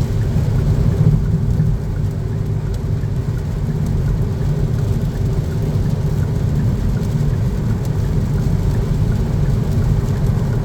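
Kia Niro hybrid's four-cylinder engine held at high revs, with road and tyre noise heard inside the cabin as a steady drone. The transmission is stuck in fifth gear and not upshifting.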